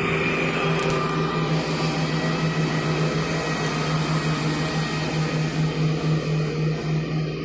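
Steady drone of a vehicle engine running at an even speed, with a strong low hum and fainter steady tones above it.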